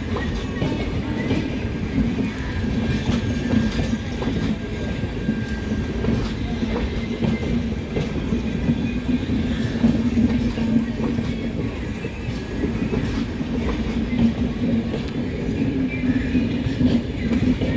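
Bharat Gaurav tourist train running on the track: a steady rumble of wheels on rail, with faint clicks as the wheels cross the rail joints.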